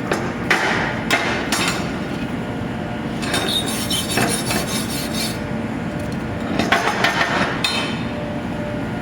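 Chipping hammer knocking slag off a freshly laid 6013 stick-weld bead: clusters of sharp metallic taps, with a denser scraping stretch between about three and five seconds in.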